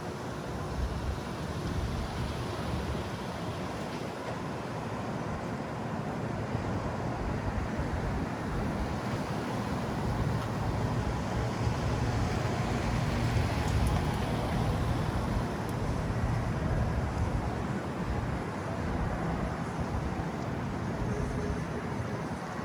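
City street traffic: a steady rumble of passing vehicles, growing louder around the middle and easing off near the end.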